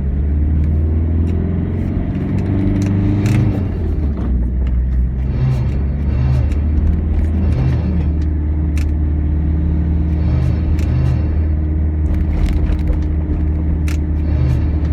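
Toyota HiAce 100-series van running with the heater on after a start, with a whining noise that swells and fades over and over ('wiin, wiin') above the steady engine drone. The owner suspects it comes from a motor, and it appears only when the heater is used soon after starting and stops once the van has been driven for a while.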